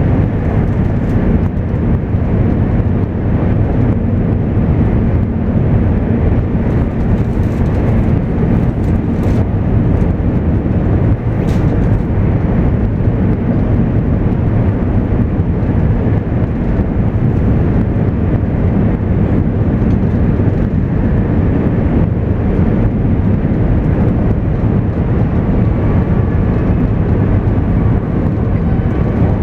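Interior running noise of a JR East 200 series Shinkansen train at speed: a steady, loud low rumble of wheels and track heard from inside the passenger cabin, with a faint whine coming in near the end.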